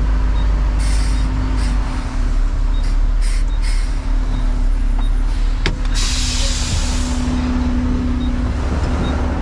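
Roll-off truck's diesel engine running steadily, with a sharp click followed by a short hiss of air about six seconds in.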